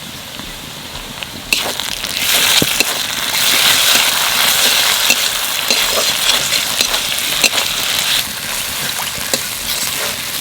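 Ground spice paste (cumin-coriander and chilli) sizzling in hot oil with fried onion, ginger and garlic in a kadai, with a spatula stirring and scraping. The sizzle jumps up about a second and a half in and stays strong, easing off near the end.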